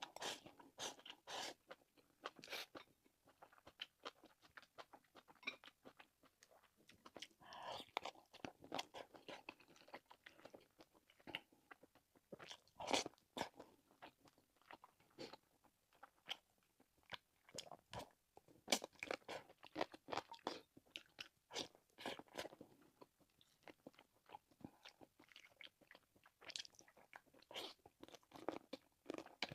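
A person chewing and biting food close to the microphone: an irregular stream of short crunches and clicks.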